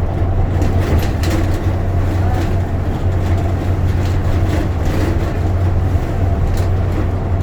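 Bus engine drone and road noise heard from inside the cabin while the bus runs at steady speed: a constant low hum with a few brief rattles.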